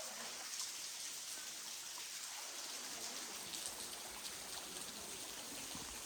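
Steady hiss of running water from a stream, with a few faint ticks.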